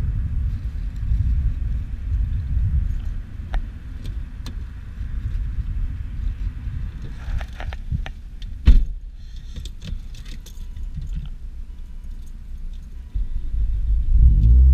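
Straight-piped Volvo C30 T5's turbocharged inline-five idling with a low rumble, under a scatter of clicks and rattles from handling in the cabin and one sharp knock about nine seconds in. Near the end the engine gets louder and begins to rev.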